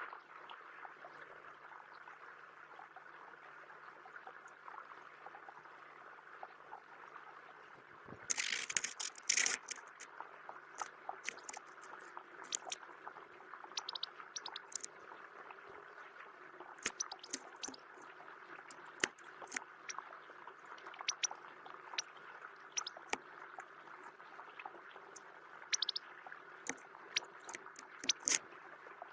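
Goldfinches splashing in a bird bath: scattered quick splashes and flicks of water, the heaviest flurry about eight seconds in and another near the end, over a steady hiss of rain.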